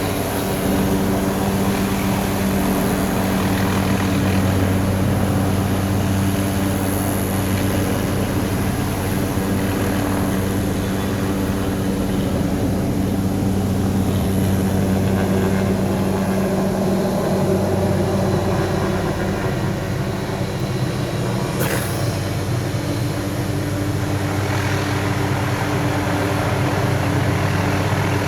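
Helicopter running with a steady engine and rotor drone, with one short click about three-quarters of the way through.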